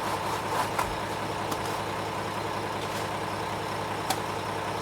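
Ready-mix concrete truck's diesel engine running steadily, with a few short sharp clicks.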